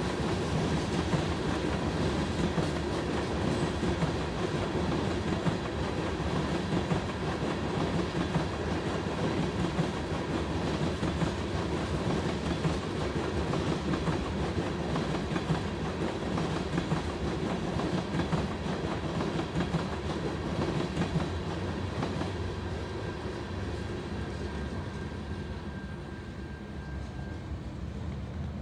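Loaded aggregate-rock hopper cars of a freight train rolling past, wheels clicking over the rail joints over a steady rumble. The sound fades over the last few seconds as the tail of the train goes by.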